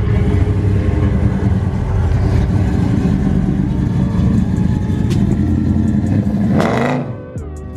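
Car engine running close by, with a brief rise in revs near the end before the sound drops away.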